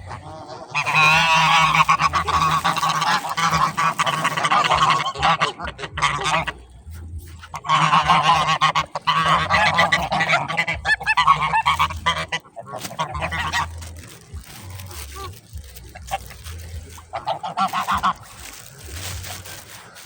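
A flock of geese honking, many birds calling over one another in two loud stretches, then fainter calling with a short louder outburst near the end.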